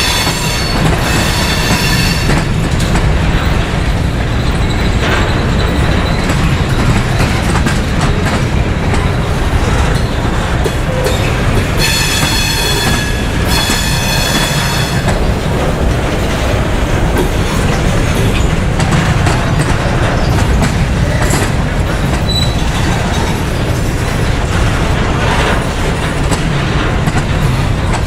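Train cars rolling past with a steady low rumble and clickety-clack of wheels over the rail joints. High-pitched wheel squeal sounds at the start and again in a spell about halfway through.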